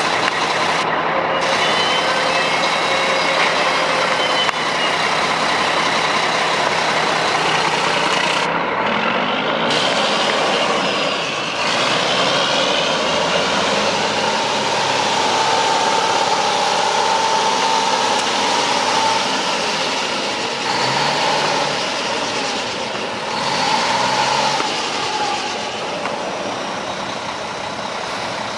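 Diesel engine of a 2000 Mack CH613 tractor truck, a Mack E7-350 inline-six, running steadily.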